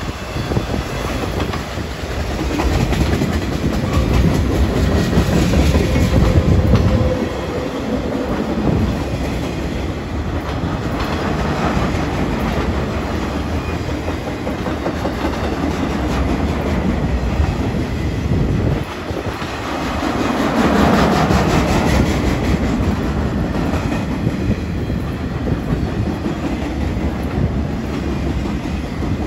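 CN train rolling past at close range, its wheels clicking rhythmically over the rail joints in a steady clickety-clack. The rumble swells louder a few seconds in and again about two-thirds of the way through.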